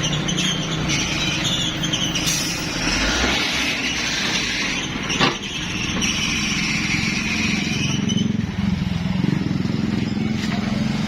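An engine running steadily, with a hiss in the middle stretch and one sharp knock about five seconds in.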